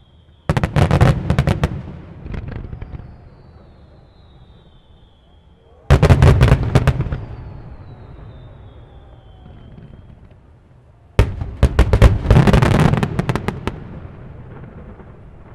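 Fireworks display: three volleys of rapid, loud bangs about five seconds apart, each lasting a second or two and trailing off in a rumbling echo. Faint falling whistles can be heard between the volleys.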